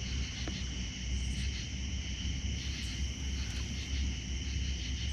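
Chorus of night insects such as crickets, trilling steadily in two high bands, over a low steady rumble.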